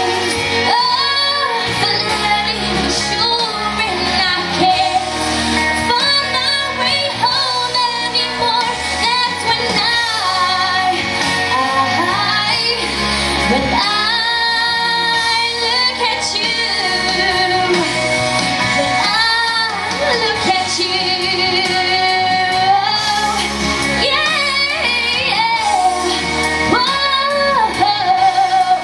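Female vocalist singing over a pop backing track, the held notes wavering with vibrato.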